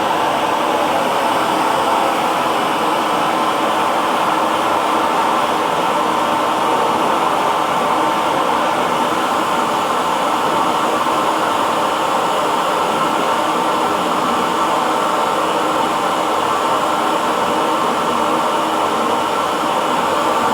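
Hair dryer running steadily: an even, unbroken whoosh of blown air and motor with a faint steady hum.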